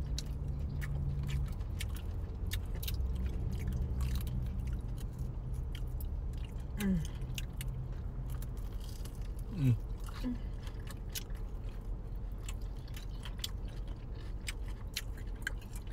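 Close-up chewing and biting into crisp fried chicken wings, many sharp crunches one after another, over a steady low hum.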